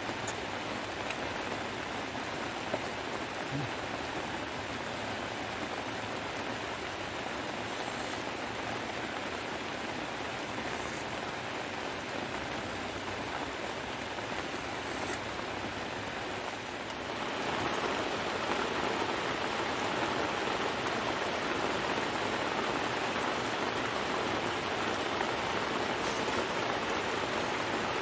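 Heavy rain falling steadily, an even hiss of drops, which turns suddenly louder and denser about two-thirds of the way through.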